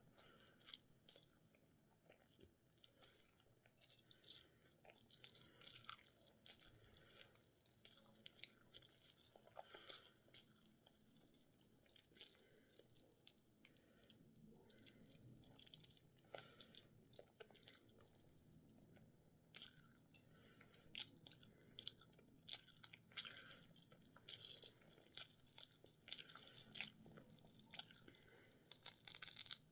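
Faint chewing and mouth sounds of someone eating a peeled hard-boiled egg: scattered small clicks, sparse at first and more frequent near the end.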